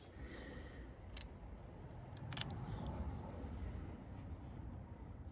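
A few short, sharp clicks and taps of small engine parts being handled and fitted, the clearest about a second in and again just over two seconds in.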